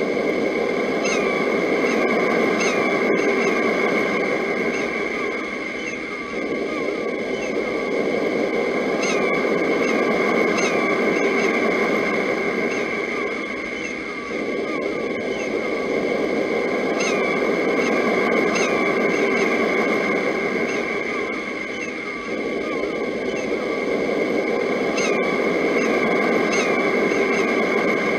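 Sea surf rising and falling in slow swells about every eight seconds, with birds chirping over a steady high ringing tone. The chirps come back at the same points in each swell, the sign of a looped recording.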